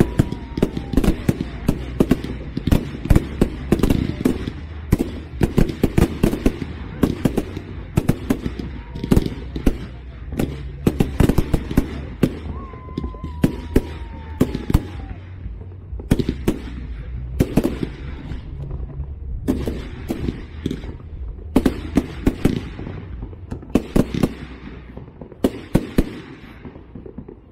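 Fireworks display: a dense barrage of bangs and crackles, with a falling whistle about halfway through. The bursts thin out to separate bangs in the second half.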